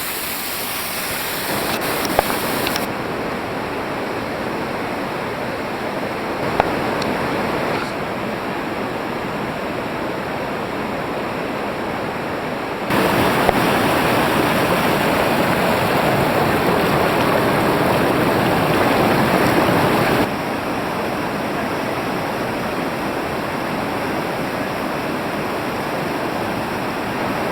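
Waterfall: a steady rush of falling water. Its loudness jumps up and down abruptly a few times and is loudest for several seconds in the middle.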